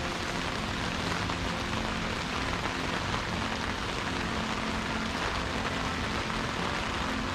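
Heavy rain falling on an umbrella held overhead: a steady, dense patter.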